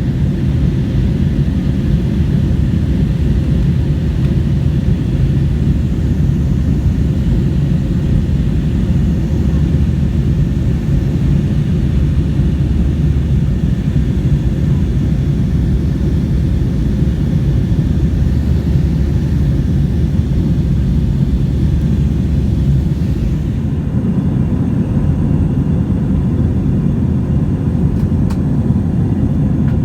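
Airbus A321 jet engines and airflow: a steady, loud low rumble with a fainter hiss above it. The hiss eases slightly about two-thirds of the way through.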